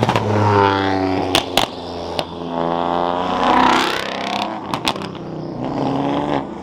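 Performance car engines accelerating hard as cars pull away, the pitch climbing twice, with a few short sharp cracks in between.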